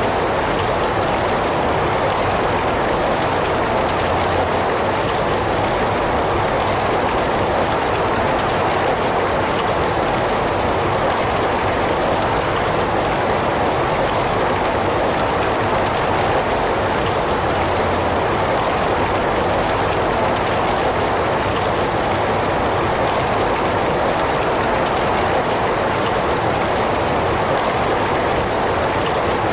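Heavy rain falling, a steady, even hiss that never lets up.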